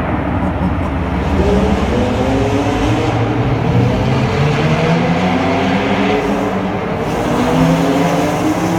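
Performance car engine accelerating hard in a road tunnel, its pitch rising steadily as the revs climb, with the tunnel's echo.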